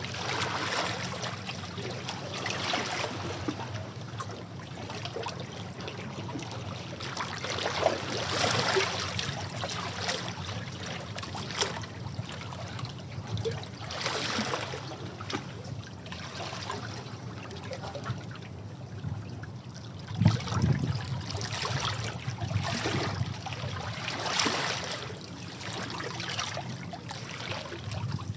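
Sea waves washing against rocks, a continuous wash of water that swells every few seconds, with one sharper splash about two-thirds of the way through.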